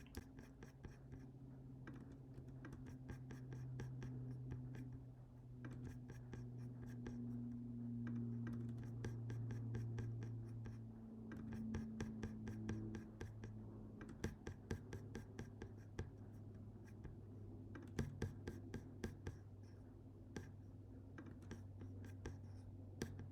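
Scattered quiet clicks from a computer mouse and keyboard, some in quick runs, over a steady low hum.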